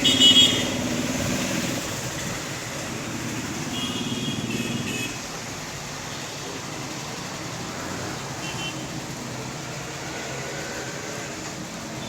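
House sparrows chirping in short bursts, three times, over a steady background rumble.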